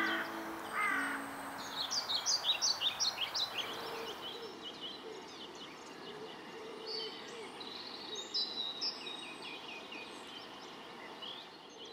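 Woodland birdsong: a bird sings a quick run of about ten sharp, high notes a couple of seconds in, then several small birds chirp and twitter more quietly.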